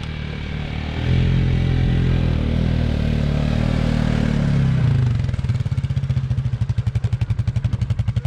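ATV engine running under throttle, louder from about a second in, then dropping to a lumpy idle about five seconds in, with an even, rapid pulse.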